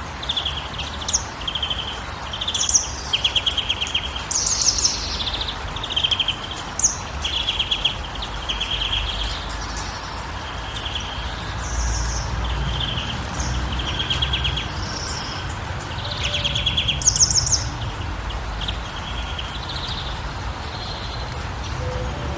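Several small birds chirping and trilling in quick, repeated short phrases, over a steady low background rumble.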